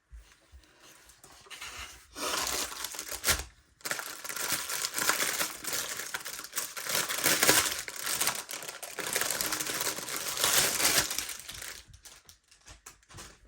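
Plastic packaging crinkling and rustling as it is handled, starting about two seconds in, pausing briefly, then going on in a dense crackle before dying away near the end.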